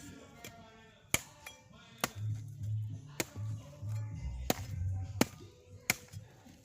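About six sharp, irregularly spaced knocks of a knife chopping food, over low music with a pulsing bass.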